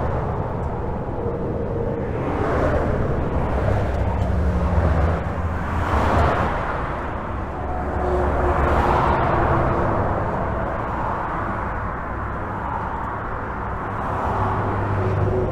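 Highway traffic heard from under a bridge: a continuous rumble of tyres and engines, with single vehicles swelling louder as they pass every few seconds.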